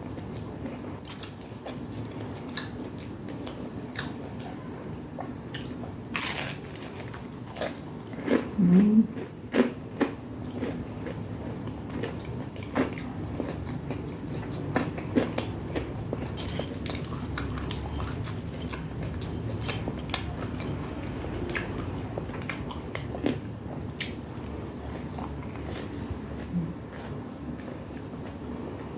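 Close-up eating sounds: crisp bites and chewing of fried Indonesian gorengan, with scattered crunchy clicks, and a brief hum of the mouth about nine seconds in.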